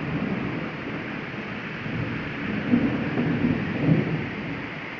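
Heavy rain pouring steadily, with a few louder, deeper swells about three to four seconds in.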